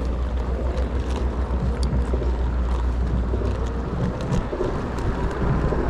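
Steady low rumble of wind buffeting an action camera's microphone while riding, with faint ticks above it.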